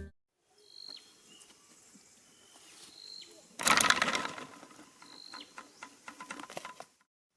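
A few short high chirps from a small bird, spaced a couple of seconds apart. About halfway through comes a louder burst of rustling and scuffling, followed by a patter of light clicks and taps.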